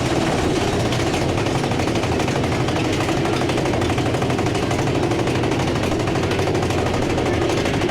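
Big Thunder Mountain Railroad mine-train roller coaster running on its track: a steady, rapid mechanical clatter.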